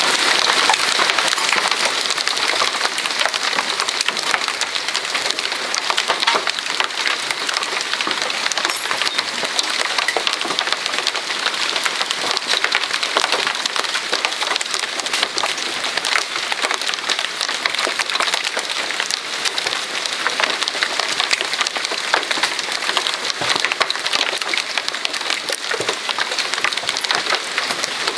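Hailstones falling in a steady, dense clatter of countless small hits.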